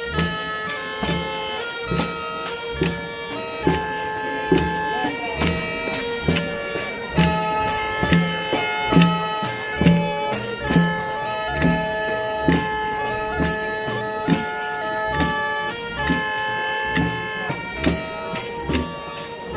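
Bagpipe playing a tune over a steady drone, with a drum keeping an even beat of about two strokes a second.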